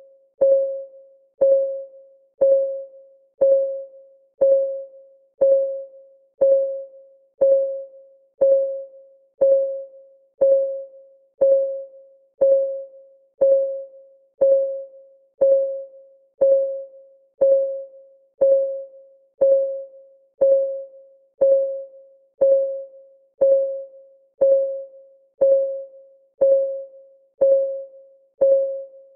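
Clock-ticking sound effect of a countdown timer: one short, pitched tick about every second, each ringing briefly and dying away, in a steady even beat.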